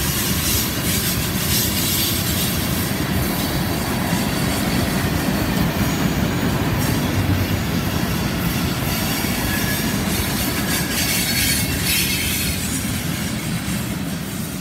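Freight train tank cars and a loaded centerbeam flatcar rolling past on a curve, wheels rumbling and clacking on the rails with a high-pitched squeal now and then. The sound eases a little near the end as the last cars pull away.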